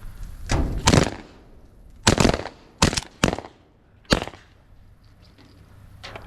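A volley of about six shotgun shots from several hunters over roughly four seconds, fired at pigeons flushing from grain bins. The shots come irregularly, some close together, and each has a short ringing tail.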